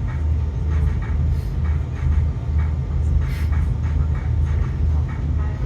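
Airbus A330-200 cabin noise as the aircraft taxis: a low rumble that swells and eases about one and a half times a second, with faint clicks and rattles over it.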